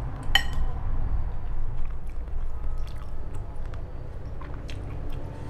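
Close-up chewing of a mouthful of boat noodles, with small utensil clicks from chopsticks and a metal spoon working in a ceramic bowl; one sharper clink with a short ring about a third of a second in. A low steady hum sits underneath.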